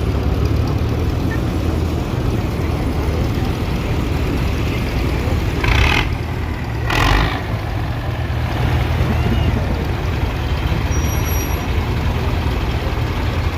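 Ford 8N tractors' four-cylinder gasoline engines running steadily in a low rumble, with two short hissing whooshes a little past the middle.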